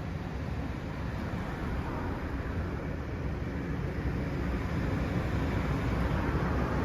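LIRR M3 electric multiple-unit train approaching, a steady rumble that grows slowly louder as it comes in.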